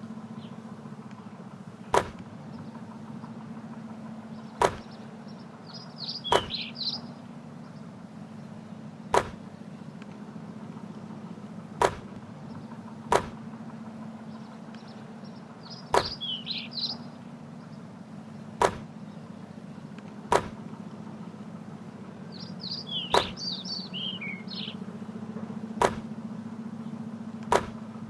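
A basketball striking sharply about a dozen times, one hit every one to three seconds, over a steady low hum. Birds chirp in short bursts three times.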